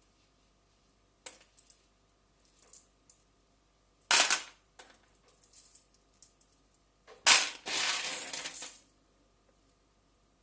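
Kitchen handling noises: a few light clicks and knocks, a sharp clatter about four seconds in, and a louder clatter a little past seven seconds that runs on for about a second and a half of scraping or rustling.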